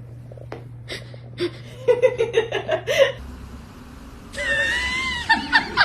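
A person laughing in short rapid bursts, with a drawn-out vocal call about four and a half seconds in, after a change in the background hum.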